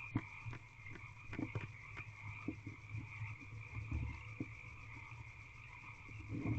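A steady chorus of frogs trilling outside the box, with scattered soft clicks and low thumps as the barn owl tears at a rabbit carcass; the biggest thump comes near the end.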